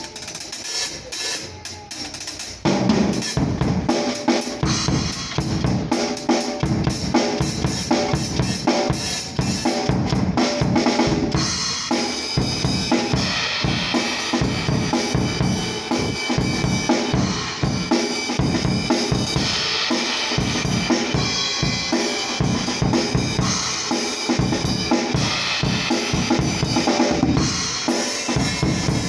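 Acoustic drum kit played alone, recorded on a cellphone: lighter playing for the first couple of seconds, then the full kit comes in about three seconds in with a steady groove of bass drum, snare and cymbals. The cymbals wash more heavily from about twelve seconds in.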